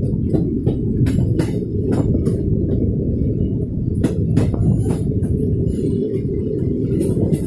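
A moving vehicle: a steady low rumble with frequent irregular clicks and knocks.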